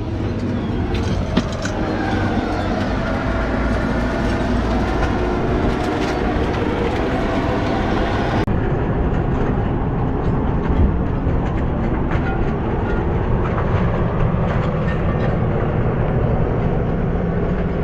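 A loud engine running steadily under continuous rattling and clattering, like heavy machinery or a truck working.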